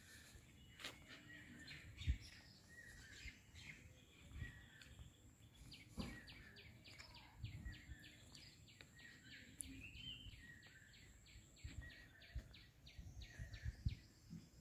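Faint birdsong. Birds chirp, and from about five seconds in one repeats a short high note about three or four times a second until near the end. A few soft low thumps are heard along with it.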